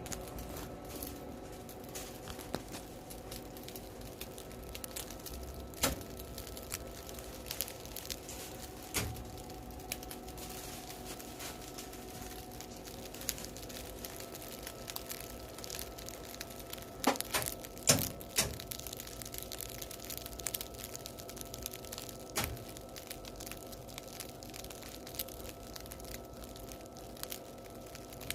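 Freshly baked baguettes crackling as the crust cools and cracks: scattered small clicks and snaps, a few louder ones, with a cluster of loud cracks about two-thirds of the way through, over a steady faint hum.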